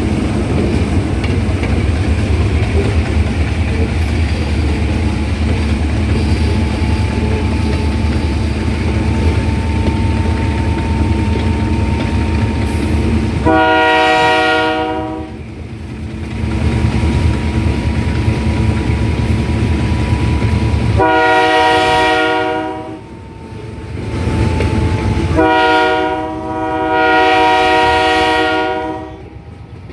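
Locomotive horn sounding four blasts, long, long, short, long: the grade-crossing signal. It plays over the steady rumble of the train rolling on the rails.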